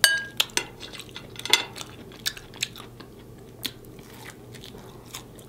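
Close-miked eating sounds: wet smacks and chewing clicks from biting and chewing a pork chop, scattered irregularly with quiet gaps. A short ringing clink at the very start, like a fork touching the plate.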